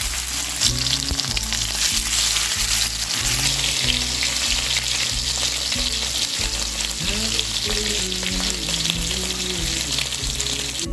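Food frying in a hot pan, a steady sizzling hiss, over background music with a steady beat.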